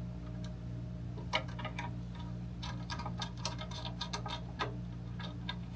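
Scattered light clicks and taps as bolts and parts on a miter saw are worked loose by hand, over a steady low hum.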